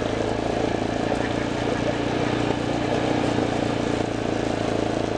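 A vehicle's engine running steadily at an even pitch.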